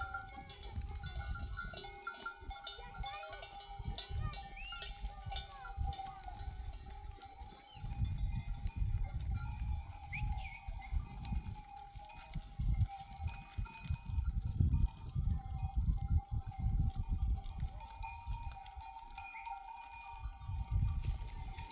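Bells on a flock of sheep ringing steadily as the animals move, with a few short calls from the flock over an uneven low rumble.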